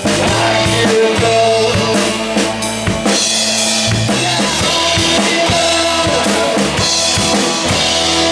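A live rock band plays an instrumental passage: a drum kit keeps a steady beat of bass drum and snare hits under sustained bass and guitar notes.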